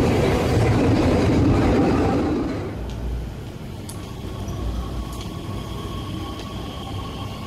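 Intercity electric train running into the station with a loud, steady rumble. After about two and a half seconds it cuts to a quieter sound: a metro train pulling in slowly behind platform screen doors, a steady hum with a thin whine and a couple of faint clicks.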